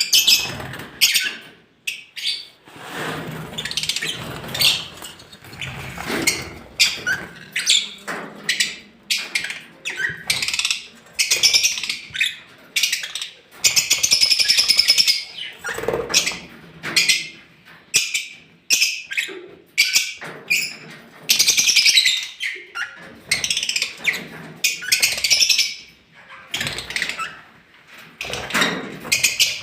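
A colony of lovebirds chirping in rapid, overlapping calls with no let-up.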